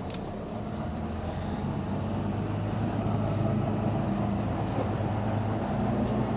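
Volvo B9TL double-decker bus heard on board: its diesel engine and driveline drone, building in loudness as the bus gets under way.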